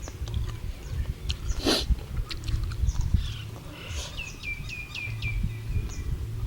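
Small bird chirping: a quick run of about five short, downward-sliding chirps a little after four seconds in, with other scattered chirps. Under it run a low rumble, scattered clicks and a short rushing noise just before two seconds in.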